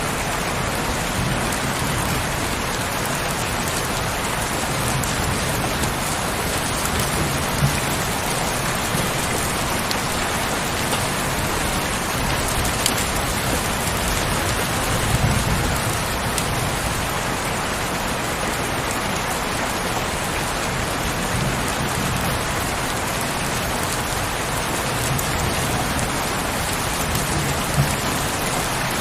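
Heavy rain falling steadily, an even hiss of drops with a few short louder moments about a quarter, half and near the end of the way through.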